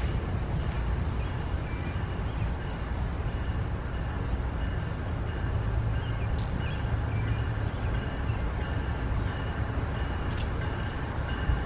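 CSX autorack freight train rolling past: a steady rumble of the cars on the rails, with a few sharp clicks and a faint high-pitched squeal.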